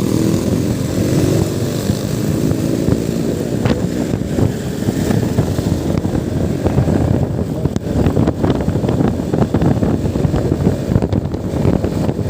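Motorcycle engine running while riding, with wind buffeting the microphone. From about seven seconds in come scattered knocks and jolts as the bike rides over a broken, potholed road.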